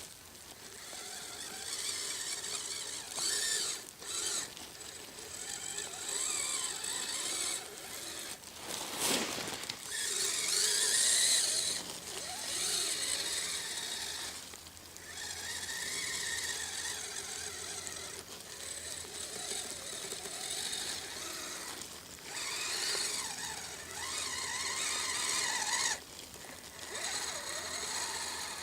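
Kyosho Blizzard SR radio-controlled snowcat driving through snow: the whine of its electric drive and track gearing rises and falls in pitch as it is throttled on and off in surges, over a steady hiss.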